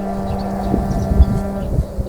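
Soundtrack music: a low brass drone held on one note, with deep rumbling thumps underneath about a second in, the loudest just past the middle. The drone fades out near the end.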